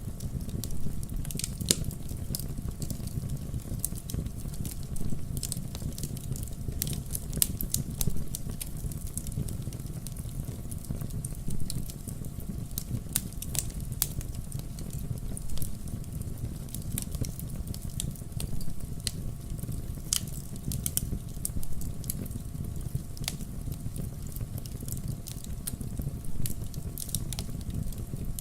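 Wood campfire burning, with a steady low rumble of flames and frequent irregular sharp crackles and pops.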